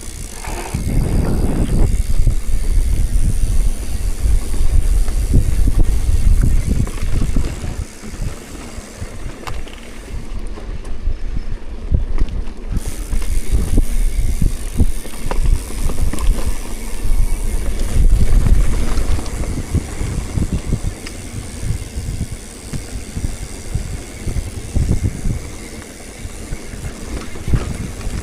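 Wind buffeting the microphone of a camera on a moving bicycle: a loud, gusting low rumble that swells and eases, with road noise underneath.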